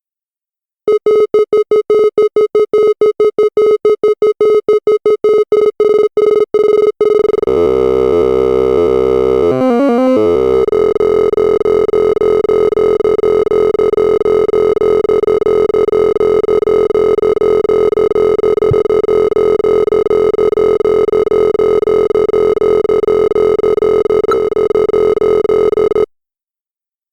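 Synthesized sorting-algorithm sonification: a fast train of short electronic beeps that thickens about seven seconds in into a continuous buzzing chord of overlapping tones, which cuts off abruptly near the end.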